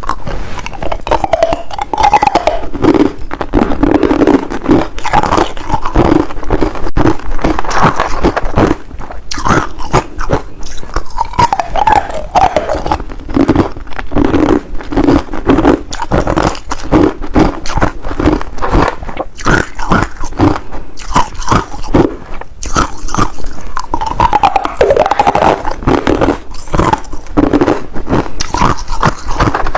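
Ice being bitten and chewed, a dense run of loud, sharp crunches one after another.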